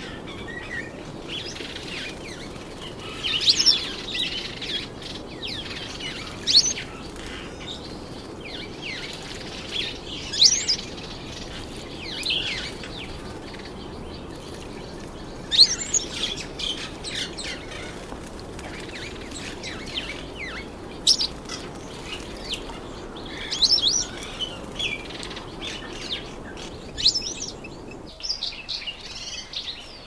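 Small birds chirping in short, sharp high calls every few seconds, over a steady low hiss that cuts off near the end. A streaky-headed canary splashes and flutters its wings while bathing in a birdbath.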